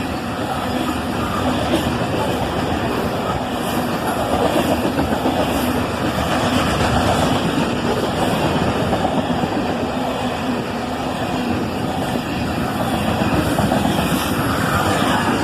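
Tank cars of a CSX freight train rolling past, a steady rumble of steel wheels on the rails.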